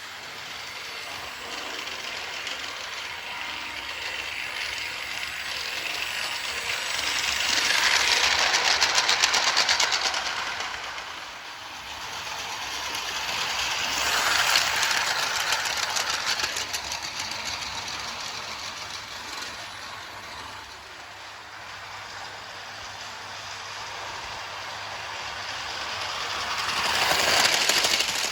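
Märklin My World battery-powered toy train running on plastic track: a whirring motor and rattling wheels that swell and fade three times as the train passes close by on its loop.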